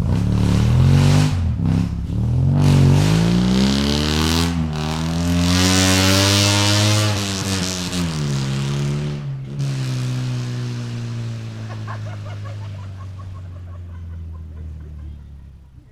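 Suzuki Escudo 4x4 engine revved through a dual ("stereo") aftermarket racing exhaust: a few rises and dips in revs, climbing to a long high rev about six seconds in, then dropping back to a steady idle that fades near the end.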